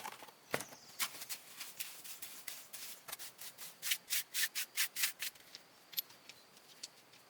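Repeated hand rubbing strokes on a surface, like sanding or scrubbing. They are light at first, then come faster and louder at about four a second, and stop about five seconds in.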